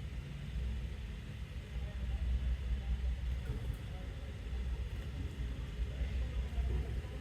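A low, uneven rumble with no clear bird calls standing out.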